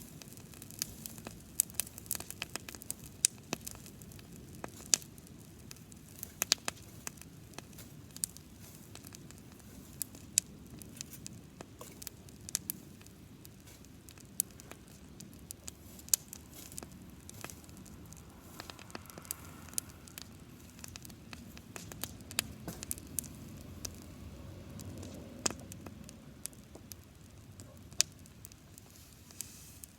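Campfire of dried grass crackling, with frequent irregular sharp pops and snaps over a steady low rush of burning.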